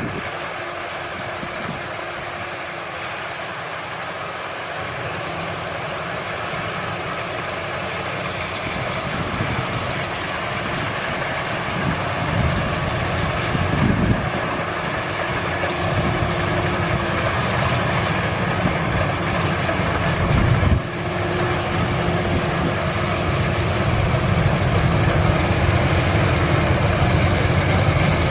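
Maxxi Bimo rice combine harvester running steadily as it harvests, its engine and threshing machinery making a continuous mechanical drone that slowly grows louder.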